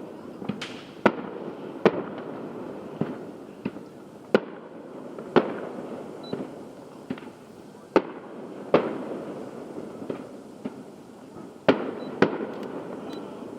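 Fireworks show: aerial shells bursting in an irregular series of about a dozen sharp bangs, with a steady low rumble between them.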